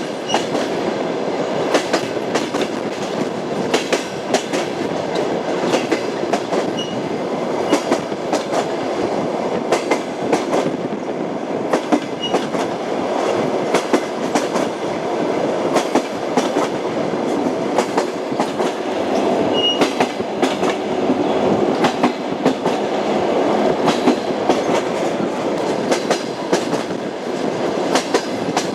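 Passenger train's wheels rolling over jointed rail track: a continuous rumble with the clickety-clack of the wheels striking the rail joints, the knocks coming irregularly throughout.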